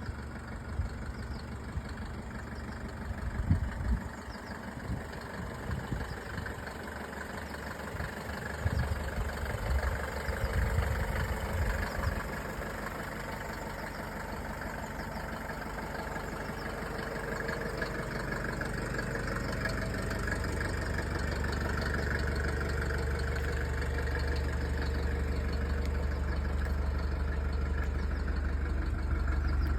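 Mercedes-Benz W201 190D diesel engine idling with a steady, low, clattering hum. Irregular low thumps come and go through the first dozen seconds.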